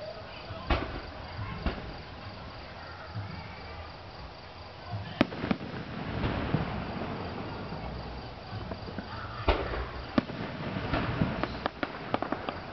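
Aerial fireworks shells bursting overhead: scattered booms, the loudest about five seconds in, then several more in quicker succession with a run of crackling near the end. A faint insect chirping runs underneath in the first half.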